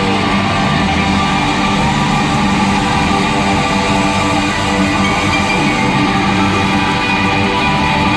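Rock band playing live and loud, electric guitars to the fore over bass and drums, steady throughout.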